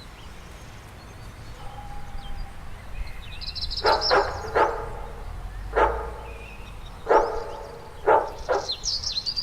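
A dog barking, six single barks spread over about five seconds, some in quick pairs, with faint bird chirps in the background.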